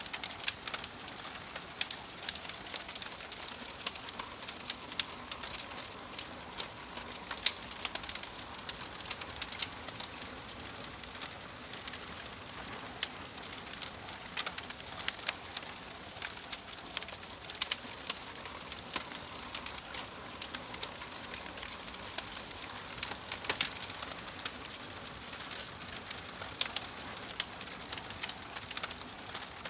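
Wood fire crackling in a fireplace: many sharp, irregular pops and snaps over a steady soft hiss of burning.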